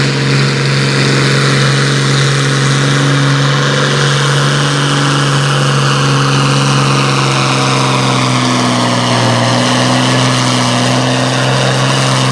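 A pulling vehicle's engine running loud and held at nearly steady revs, one sustained engine note.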